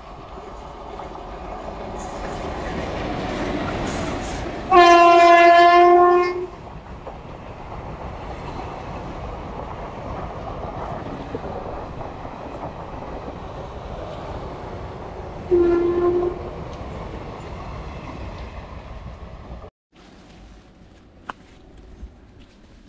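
Indian Railways passenger train approaching, growing louder, then sounding a long horn blast about five seconds in and a short second blast later while its coaches run steadily past. The train sound cuts off suddenly near the end, leaving a much quieter background.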